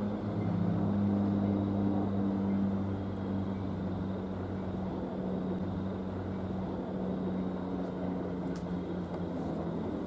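An NJ Transit diesel train's locomotive engine runs with a steady low drone over rumbling wheel and track noise, slowly fading as the train moves along.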